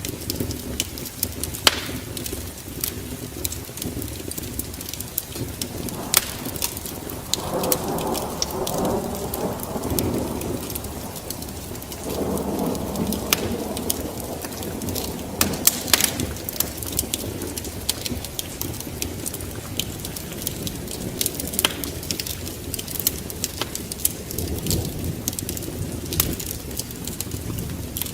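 Wood fire crackling with frequent sharp pops, over steady rain and low thunder rumbles that swell twice, about a quarter of the way in and again just before halfway.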